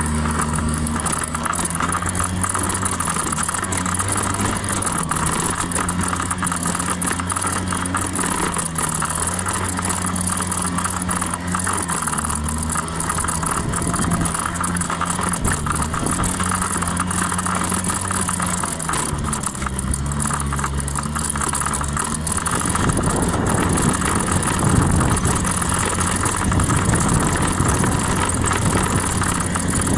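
Honda 50cc scooter engine running, its note shifting up and down several times as the speed changes. From about 22 seconds in, a louder, even rushing noise covers the engine tone.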